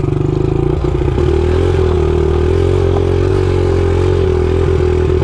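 Dirt bike engine running under steady throttle while riding. Its pitch climbs about a second in, then holds level.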